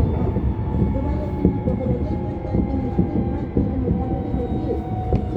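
Tokyo Metro 16000 series train running: rumble of wheels on rail under a steady whine from its Toshiba IGBT-VVVF inverter and permanent-magnet synchronous motors, the whine falling slowly in pitch as the train slows.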